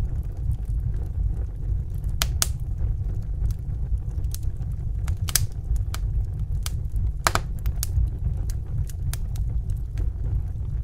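Wood fire crackling in a fireplace: a steady low rumble of flames with sharp pops and snaps about once a second, one stronger pop about seven seconds in.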